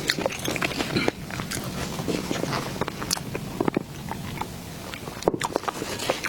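Close-miked mouth sounds of a person eating cake: chewing and lip smacks, with many short irregular clicks.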